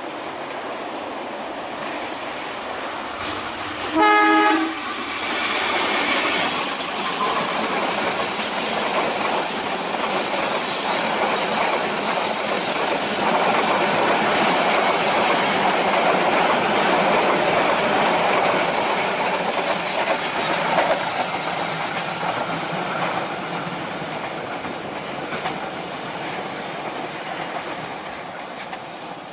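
Diesel locomotive hauling a passenger train, giving one short horn blast about four seconds in. The locomotive and its coaches then run past, loud through the middle and fading near the end as the last coach moves away.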